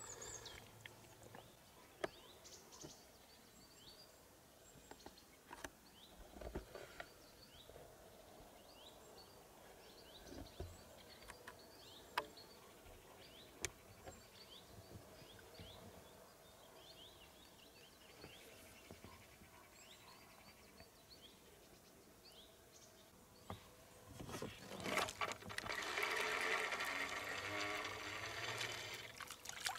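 Small birds chirping over and over in quiet riverside ambience, with a few soft clicks. About 24 seconds in, a louder rushing, splashing noise starts and runs for about five seconds.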